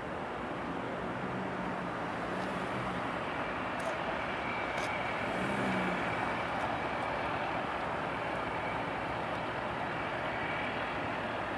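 Steady rushing rumble of a large passing vehicle, with a faint high tone running through it.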